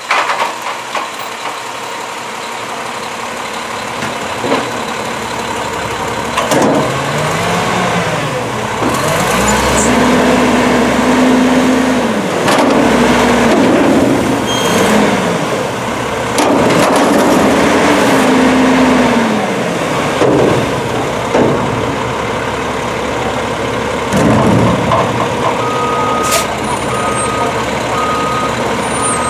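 Garbage truck engine revved up and held, then falling back to idle, several times over. A backup alarm beeps four or five times near the end.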